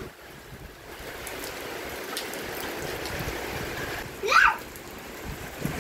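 Heavy tropical downpour falling steadily on tiled roofs and a yard, an even hiss of rain. About four seconds in, a short voice cry cuts through it.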